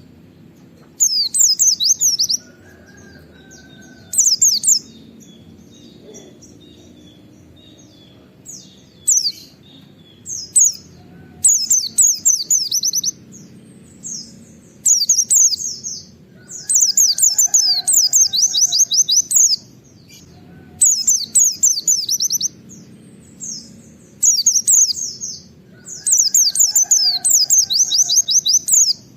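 White-eye (pleci) singing in its rapid-fire 'nembak' style: repeated bursts of fast, sharp, high 'wit-wit' notes, each burst a second or two long with short pauses between, over a steady low background noise.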